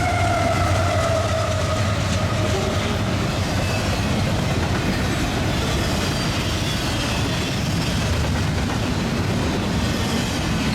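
Union Pacific freight train's diesel locomotives passing at speed. The tail of the horn glides down in pitch and fades in the first few seconds, then the engines and wheels keep up a steady rumble with clickety-clack on the rails.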